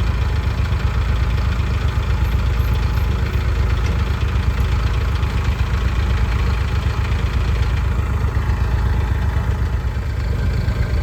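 Tractor engine running steadily at idle with a low rumble.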